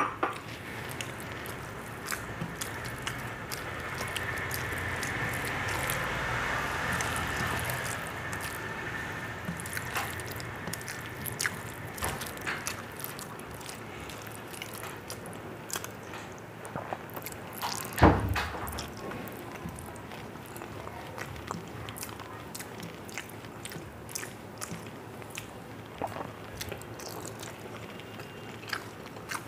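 Close-miked chewing and wet mouth sounds of a person eating rice and duck egg curry by hand, with small clicks and squelches as fingers mix the rice on a steel plate. There is one louder knock a little past halfway.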